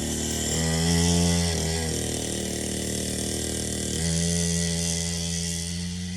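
Dirt bike engine running and being revved in steps: the pitch rises a little under a second in, drops back near two seconds, and rises again about four seconds in.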